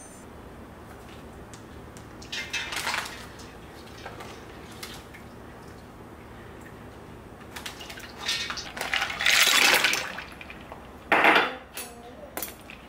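Dishes and cookware being handled, with a few short clatters and a longer noisy stretch about nine seconds in.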